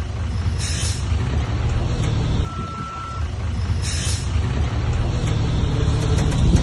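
Heavy diesel earthmoving machinery running steadily, with a single high reversing-alarm beep about two and a half seconds in. Two short hisses come about a second and four seconds in.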